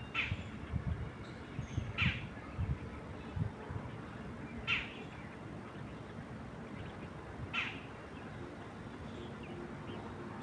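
A bird repeating a short, sharp call that sweeps downward, four times a couple of seconds apart, over a steady low rumble of wind.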